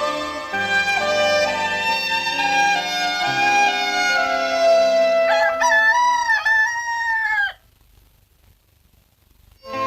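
Film soundtrack music with held orchestral chords. About five seconds in, a rooster crows once over the music for about two seconds. Then everything cuts off to a quiet gap of about two seconds before the music returns.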